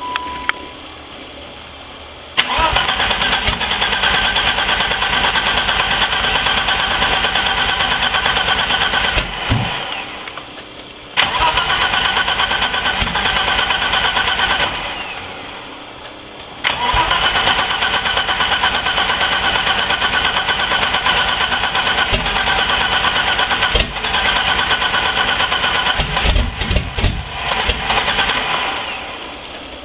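Turbocharged BMW E30 engine started three times. Each time it catches and is held on the throttle at around 2,000 rpm, then sags and dies away, because it will not idle. It has run extremely rich ever since 30 lb injectors were fitted.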